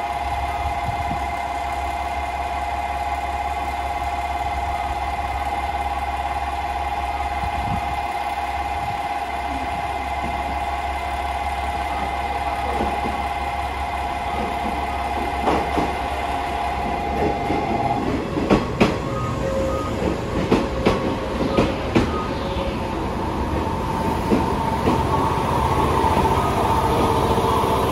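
A KiHa 47 diesel railcar idles with a steady low rumble and hum. About halfway through, a 381-series electric limited express pulls in alongside, its wheels knocking over the rail joints in a string of clacks. Near the end there is a faint wavering squeal as the train slows past.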